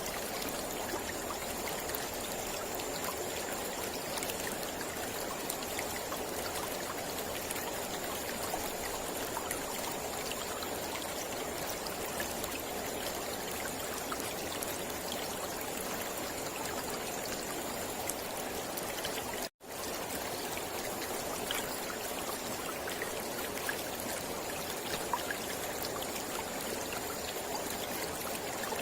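Mountain river flowing steadily over rocks, a constant rushing and trickling. The sound cuts out for an instant once, about two-thirds of the way through.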